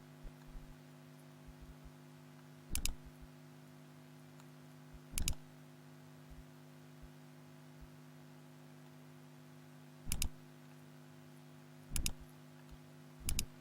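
Computer mouse clicking: five quick double clicks spaced a few seconds apart, over a steady low hum.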